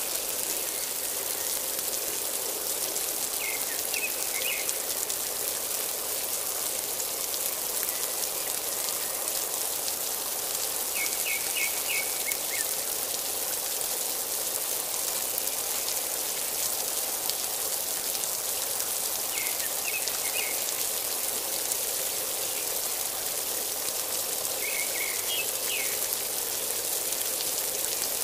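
Steady rain falling on trees and foliage, an even hiss with no let-up. A bird calls a short phrase of quick chirps four times, a few seconds apart.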